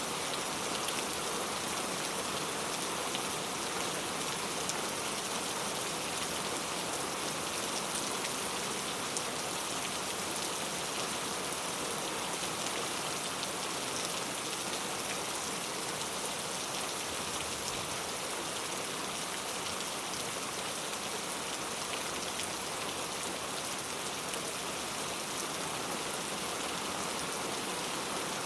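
Heavy rain falling steadily on street surfaces, a dense even hiss dotted with the ticks of individual drops.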